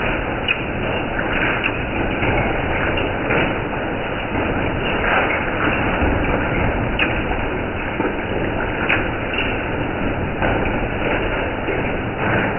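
Hail and heavy rain pounding steadily, with a few sharp, louder hailstone hits standing out.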